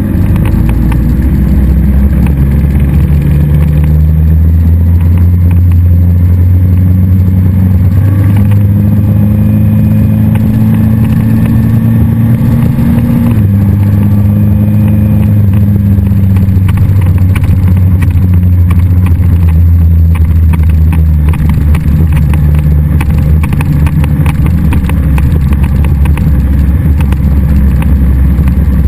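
Kawasaki sport bike's inline-four engine running loud and steady at low revs while the bike rolls slowly. The engine note steps up about eight seconds in and drops back around thirteen seconds.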